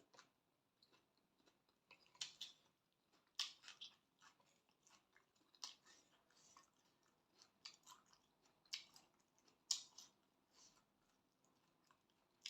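A person chewing a mouthful of spicy glass noodle salad close to the microphone: short, irregular wet crunches and mouth smacks.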